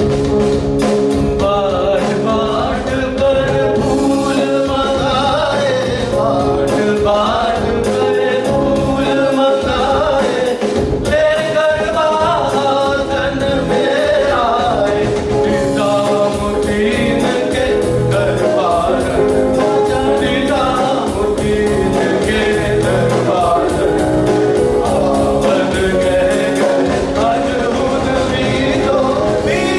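Sung music with instrumental accompaniment and a steady percussion beat: voices carry a wavering melodic line over held drone-like tones, in a song built from rain ragas such as Malhar.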